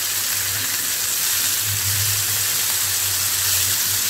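Skewered, yogurt-marinated chicken tikka pan-frying in hot oil in a nonstick pan: a steady sizzle, with a low hum underneath.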